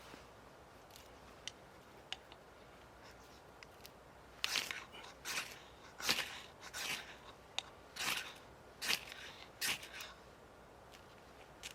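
A few faint clicks, then a run of about eight short scraping strokes, roughly one every 0.7 s, that stop about two seconds before the end.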